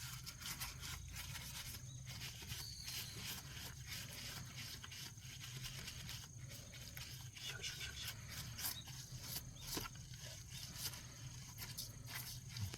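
Steel wool scrubbing a car wheel, with irregular short scraping strokes over a low steady hum.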